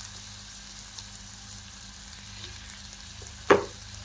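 Chopped onion, green chilli, garlic and capsicum frying in oil in a steel kadhai, with a steady sizzle. About three and a half seconds in, a single sharp knock, as the wooden spatula strikes the pan.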